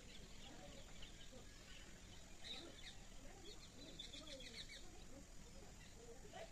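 Faint bird chirping over quiet outdoor ambience, with a quick run of short chirps about four seconds in.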